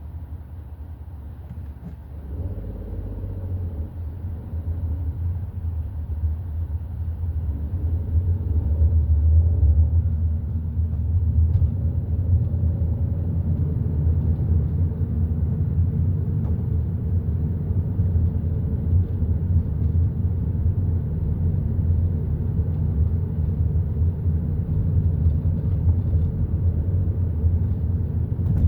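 A Hyundai i30 N Line on the move: a steady low rumble of engine and road noise. It grows louder over roughly the first ten seconds and then holds even.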